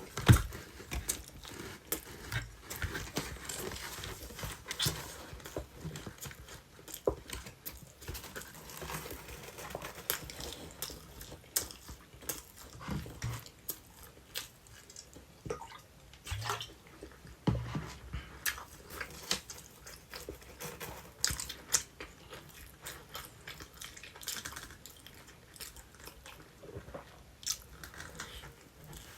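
A person chewing and biting sweet potato pizza close to the microphone: irregular wet mouth clicks and crunches, with short pauses between bites.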